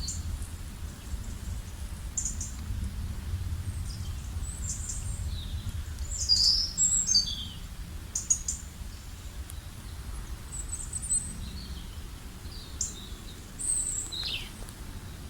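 Wild songbirds chirping and calling in short, high bursts and trills, with gaps between them, over a steady low rumble.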